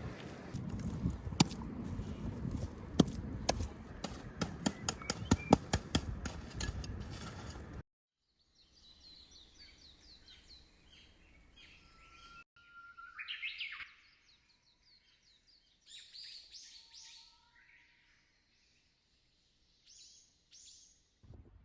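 A noisy stretch full of sharp clicks and knocks for about eight seconds, then it cuts abruptly to quiet, with small birds chirping and calling on and off.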